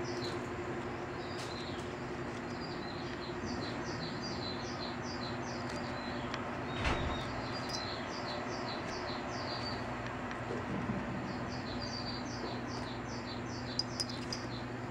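High chirping in rapid runs of short falling notes, about four or five a second, over a steady low hum. A single thump comes about seven seconds in.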